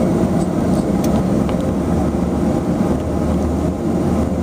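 Twin turboprop engines of a LET-410 heard from inside the cabin: a loud, steady drone, with a low hum growing stronger about halfway through.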